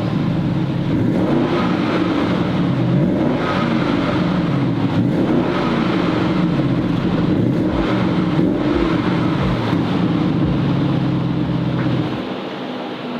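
Audi RS Q8's V8 exhaust revved up and down repeatedly, the note rising and falling several times before dropping away near the end.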